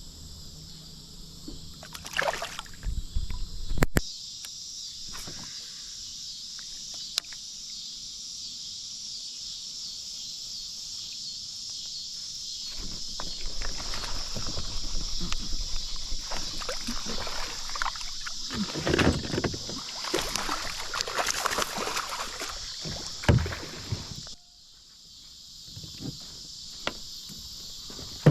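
Water sloshing and splashing with knocks against a kayak. Behind it, a steady high insect buzz stops suddenly near the end.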